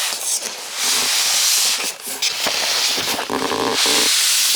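Cardboard box and packaging scraping and rustling as it is pulled off and pushed away from the boxed coffee machine, with a brief squeaky creak about three seconds in.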